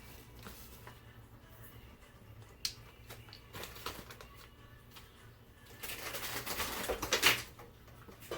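A spoon clicking a few times against a cooking pot, then about a second and a half of rustling, scraping noise, as fine semolina is added to the milk and starch for ashta and stirred in.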